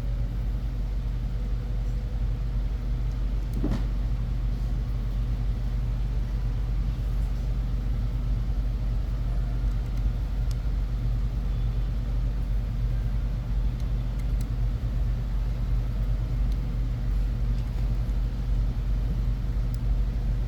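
Steady low hum of background machinery, with a faint click of a small tool about four seconds in.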